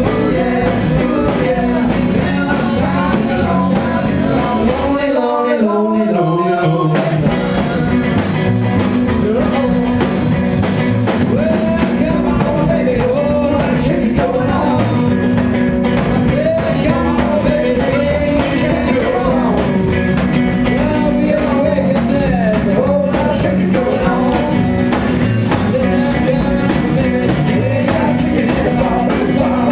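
Live rock and roll band playing with a lead vocal. About five seconds in the band briefly drops out while a single line slides down in pitch, then the full band comes back in.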